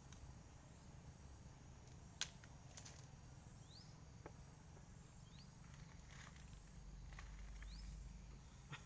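Near silence: faint outdoor ambience with a low rumble, a few scattered clicks and three short rising chirps.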